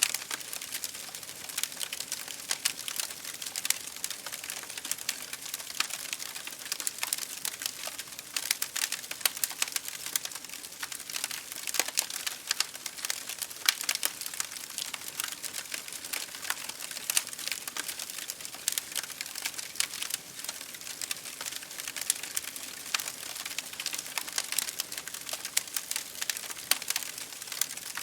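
Rain hitting a window pane mixed with a wood fire crackling in a fireplace: a steady hiss thick with fast, irregular ticks and pops.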